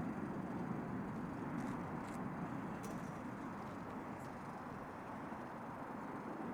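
Steady distant jet aircraft rumble, easing slightly in level through the middle and rising again near the end.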